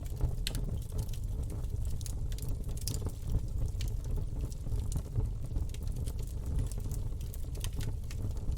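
Campfire burning with a steady low rumble and frequent irregular crackles and pops.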